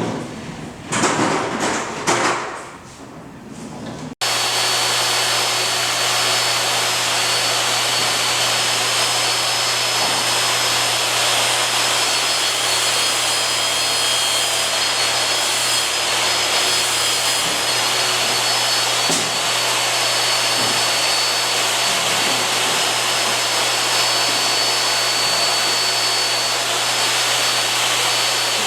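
A few irregular knocks and handling sounds, then, about four seconds in, a loud steady machine noise that starts abruptly, like a vacuum or blower, with a constant low hum and a thin high whine running unchanged.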